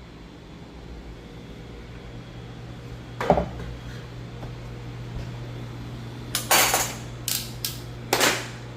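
Woosung commercial refrigerator running with a steady low hum, broken by a sharp knock about three seconds in and a run of loud metallic clattering near the end.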